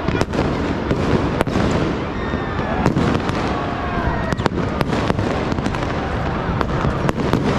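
Many fireworks going off at once from all around: a continuous din of rumbling bangs, with sharp cracks and pops every fraction of a second and a few falling whistles.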